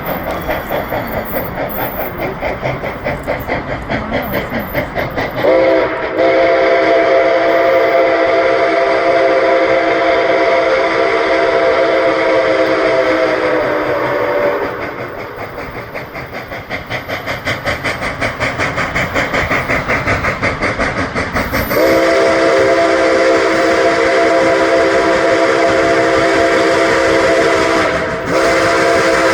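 Nickel Plate Road 765, a 2-8-4 Berkshire steam locomotive, working with fast, even exhaust beats throughout. Its whistle sounds a chord in two long blasts: one about six seconds in lasting some eight seconds, another starting near the end, with a brief break in it.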